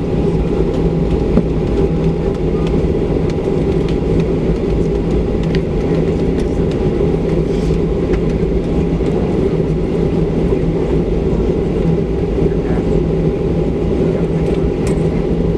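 Steady cabin rumble of a Boeing 737-700 taxiing on the ground, its two CFM56-7B engines at idle along with the cabin air, with a faint steady whine above the rumble.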